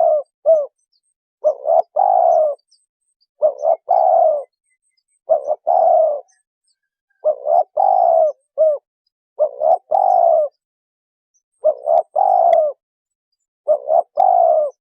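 Spotted dove cooing: its phrase of two or three quick notes followed by a longer, falling coo, repeated about every two seconds, seven times over.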